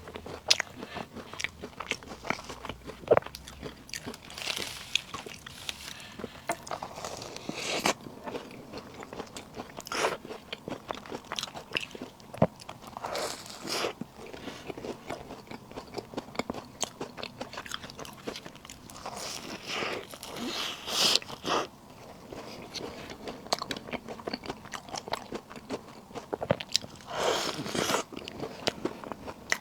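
Close-miked eating of puff snacks: repeated bites and chewing, full of small crisp crackles, with a few louder crunchy bites.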